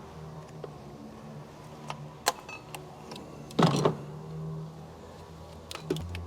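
Tools and metal parts clicking and clinking during engine work under a minivan's hood, with one short, louder rattle about three and a half seconds in, over a steady low hum.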